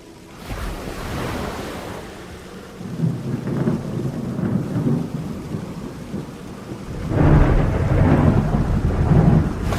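Thunderstorm: rolling thunder over steady rain. One rumble builds about half a second in, another comes around three seconds, and the loudest rolls from about seven seconds to near the end.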